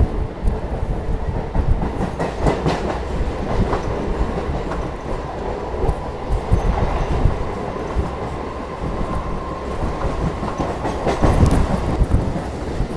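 Chennai suburban EMU local train running along the line, heard from on board: a steady rumble of wheels on rail with scattered knocks, and a faint steady whine for a few seconds midway.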